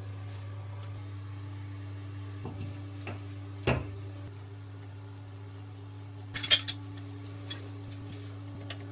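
Hard clinks and knocks of tools and fittings being handled during plumbing work: a single sharp knock a little before four seconds in, and a quick cluster of clinks about six and a half seconds in. A steady low hum runs underneath.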